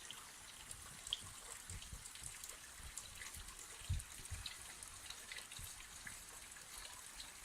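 Light rain: scattered raindrops and drips ticking over a faint steady hiss, with a few dull low thumps, the strongest about four seconds in.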